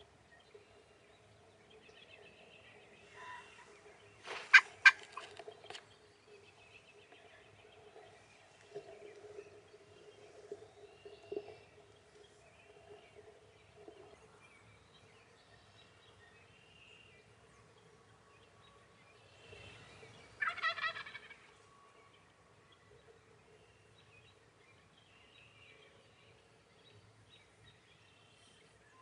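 Wild turkey gobbling twice, a loud rattling gobble about four seconds in and another about twenty seconds in, with faint songbird chirps between.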